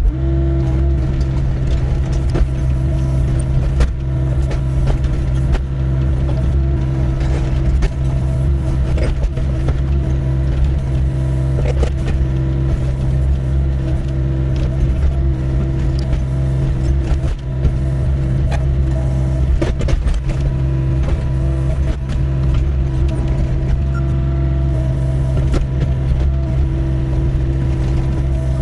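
Doosan 55W wheeled excavator's diesel engine running steadily under load while digging a trench, with frequent sharp knocks and scrapes of the bucket against stony ground.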